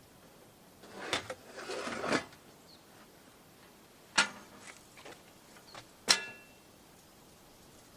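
Things being handled at close range: a rustling clatter about a second in, then two sharp clicks, the second with a brief metallic ring.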